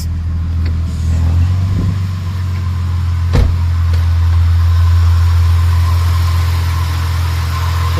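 Car engine idling steadily, running again after a no-start fixed with new battery terminals. One sharp knock about three and a half seconds in.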